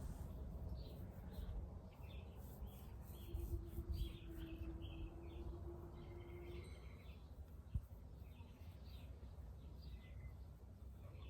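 Small birds chirping repeatedly in short calls over a low, even rumble. A steady low hum runs for about three seconds midway, and there is a single sharp click about eight seconds in.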